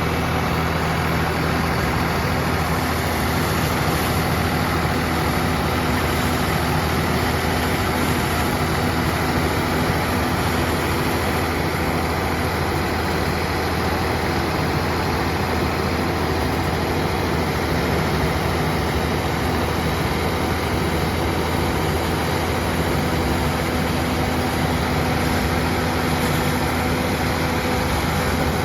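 Swaraj 969 FE tractor's diesel engine running at a steady, unchanging speed.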